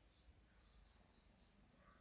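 Near silence, with faint high-pitched chirps.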